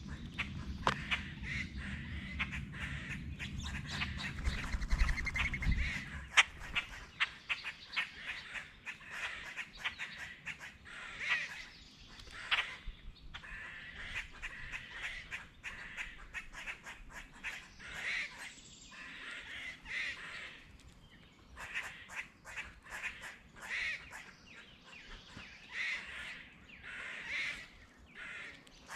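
Birds calling, short harsh calls repeated every second or two, mixed with many sharp taps. A low rumble runs under the first six seconds and then stops.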